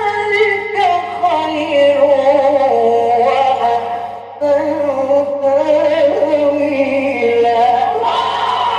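A male Quran reciter's voice holding a long, slowly gliding melismatic phrase in tajweed style over a steady electrical hum.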